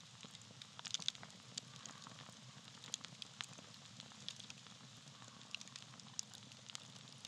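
Campfire of dry tree bark burning, with irregular sharp crackles and pops over a faint steady low rush; a quick cluster of snaps about a second in.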